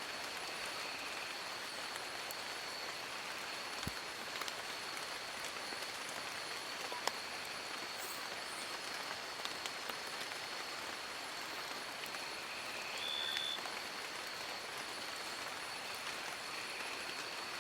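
Steady rain falling on forest leaves, an even hiss with scattered sharper drips. A thin, steady high whine runs underneath, and a short high chirp sounds about thirteen seconds in.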